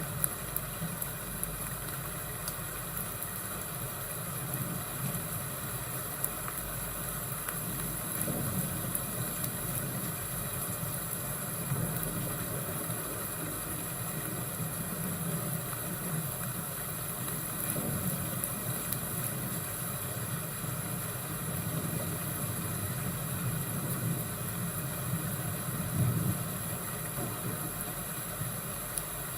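Fireplace and thunderstorm ambience: a steady low rumble that swells now and then, with small scattered crackles over a constant hiss.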